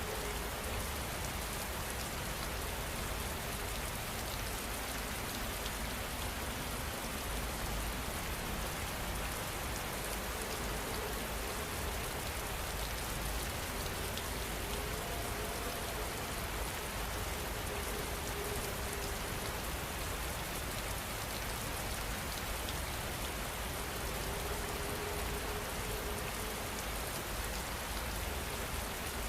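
Steady rain falling, an even, unbroken hiss of many drops on a surface.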